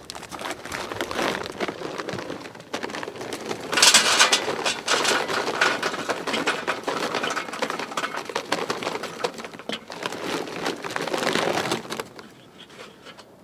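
Charcoal briquettes clattering and rattling as they are poured into a Weber charcoal kettle grill, to add fuel against the cold. The loudest rush comes about four seconds in, and the sound stops about twelve seconds in.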